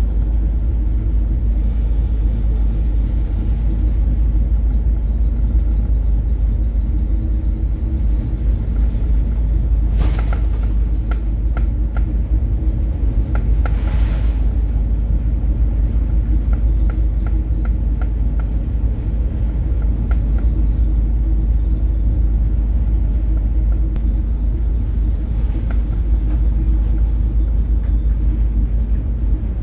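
Steady low drone of a coastal cargo ship's diesel engine heard on board, with faint rattles and two brief rushing bursts of noise about ten and fourteen seconds in.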